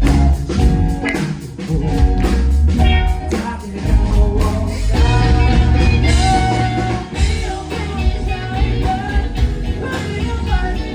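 A live band playing a song with a singer over drums, bass and electric guitar, with a steady beat and a heavy bass line.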